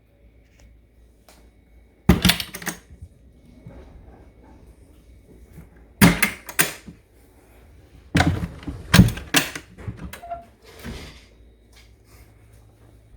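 Clunks and clatter in four short clusters, like the door and latch of the blender's sound-reducing box being worked and handled, with the blender itself switched off.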